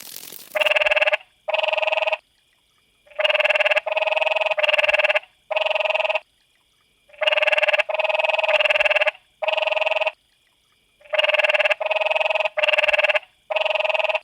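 Frog calling: a string of short buzzy croaks, each about half a second long, mostly in quick runs of two or three with pauses between.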